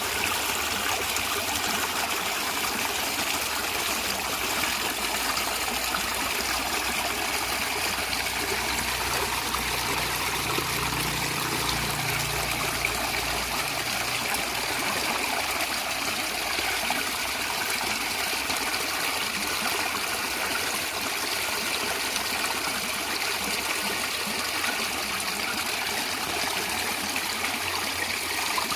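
Natural stream water gurgling and trickling steadily, with a faint low rumble swelling for a few seconds in the middle.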